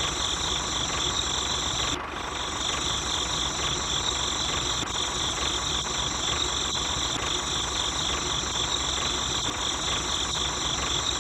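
Mini DIY tractor running steadily: a continuous engine-like drone with a regular knocking pulse a few times a second, and a brief dip about two seconds in.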